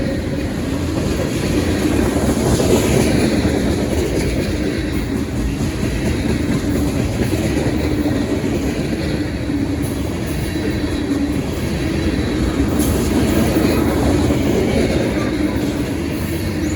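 Freight cars of a long mixed manifest train rolling past, a steady loud rumble of steel wheels on rail with clickety-clack.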